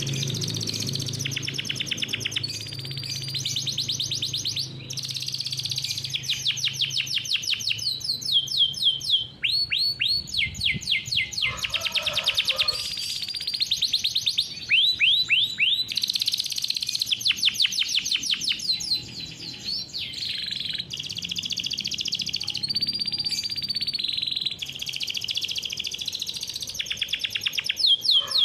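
Domestic canary singing a long unbroken song of rapid rolling trills, one dense phrase after another with a few slower falling notes between them.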